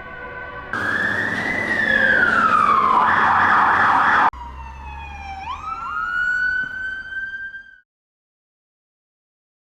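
Emergency vehicle sirens in separate clips: a steady tone at the start, then a loud siren wailing downward over about three seconds with vehicle noise under it, then a second siren that dips and rises again. It cuts off just under eight seconds in.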